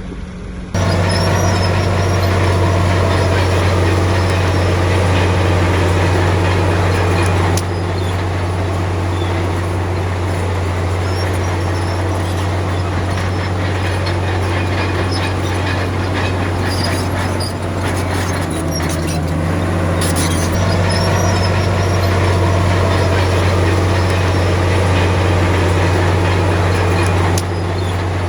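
Heavy earthmoving machine's diesel engine running steadily under load, a deep low drone with a rattling clatter over it, starting abruptly about a second in.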